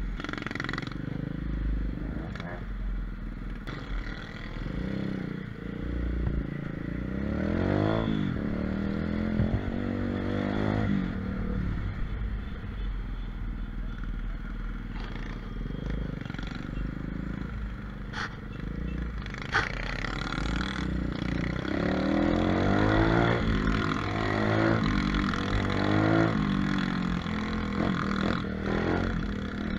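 125cc pit bike engine running and revving up and down as it is ridden, its pitch climbing and dropping several times, most strongly in the second half.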